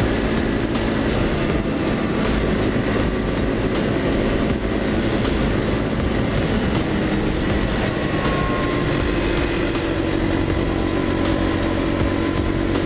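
Dual-sport motorcycle running at a steady cruising speed under heavy wind rush, with a light regular ticking about three times a second.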